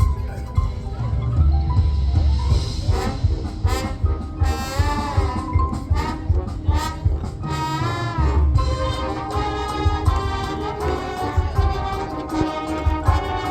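High school marching band playing: brass section sounding full chords with swooping pitch bends, over drum hits and a heavy low end.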